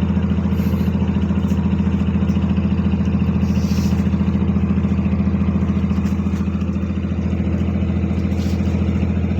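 Ship's diesel engine running steadily with an even, rapid throb while the vessel manoeuvres to berth.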